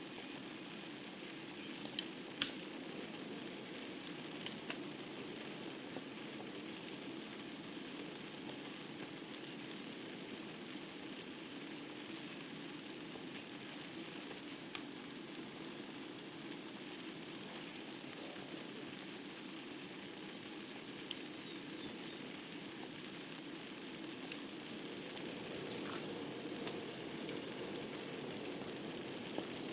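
Wood fire crackling in a fireplace: a steady hiss of burning logs with scattered sharp pops, two of them close together about two seconds in.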